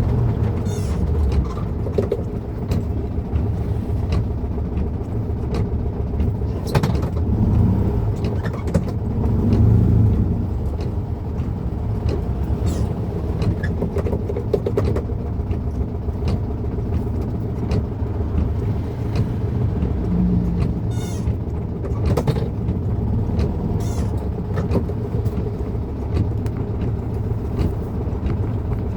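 Volkswagen Beetle's air-cooled flat-four engine running as the car drives, heard from inside the cabin as a steady low rumble. Scattered short clicks and knocks sound through it.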